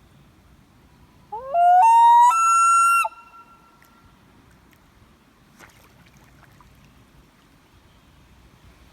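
Common loon calling once: a wail that rises and then climbs in steps to a higher held note for about two seconds, ending abruptly with a short echo across the water.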